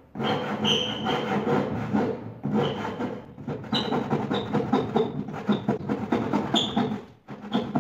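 Handsaw cutting through a wooden board in steady back-and-forth strokes, a continuous rough rasp with brief squeaks. The sawing pauses for a moment near the end.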